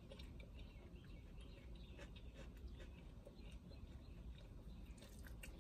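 Near silence with faint, scattered soft clicks of closed-mouth chewing over a low hum.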